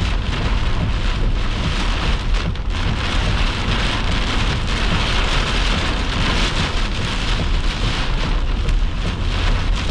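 Heavy rain hammering on a vehicle's roof and windshield during a downpour, a steady dense drumming with a deep rumble underneath.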